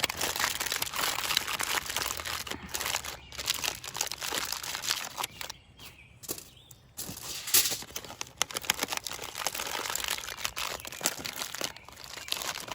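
Aluminium foil being folded and crimped around a food packet, with bursts of crinkling and crackling and a short lull about halfway through.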